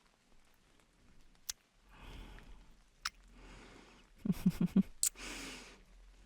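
A woman's close-up kissing and mouth sounds: a couple of sharp lip smacks between breathy sighs. A short run of soft voiced pulses comes about two-thirds through, then a click and a long breathy exhale.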